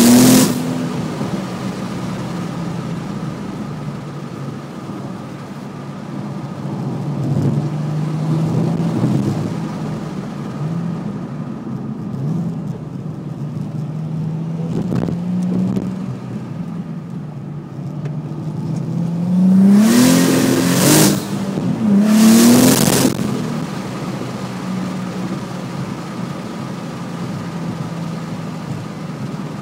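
Twin-turbocharged Nissan 370Z V6 (GTM Stage I kit) idling steadily with throttle blips: a short rev at the start, a couple of gentle ones, then two sharp, loud revs about two seconds apart past the middle before it settles back to idle.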